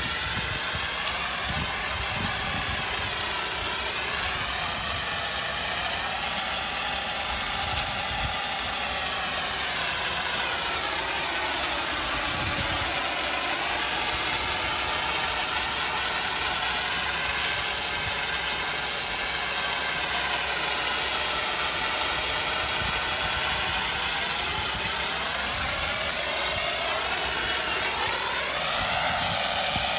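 Pressure-washing rig running steadily during a rinse: engine and pump noise under a hiss of water spray, with a pitch that drifts slowly up and down.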